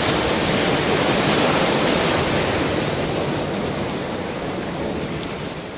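Ocean surf: a wave's rush of foaming water swells, then slowly eases and fades away near the end.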